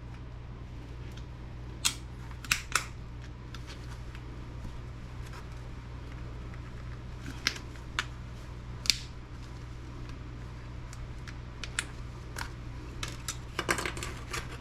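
Scattered sharp clicks and taps of small laptop parts being handled and pulled apart by hand, plastic and metal pieces knocking together, at irregular intervals and more closely spaced near the end, over a steady low hum.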